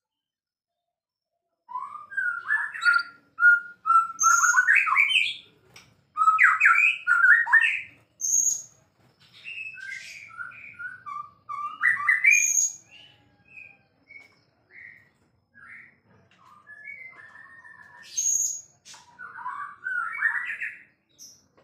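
White-rumped shama (murai batu) singing a varied song of quick gliding phrases with sharp high notes, broken by short pauses. The song begins about two seconds in and is softer in the middle.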